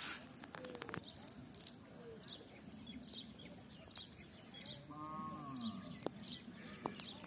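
Small birds chirping over and over in the background, with a single bleat from a farm animal about five seconds in.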